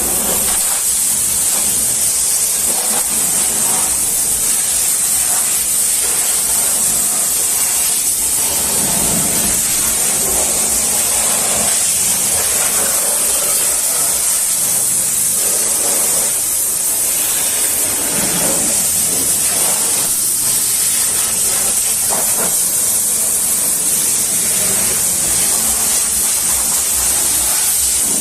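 High-pressure washer spraying water, a loud steady hiss that shifts a little in tone as the jet moves over surfaces.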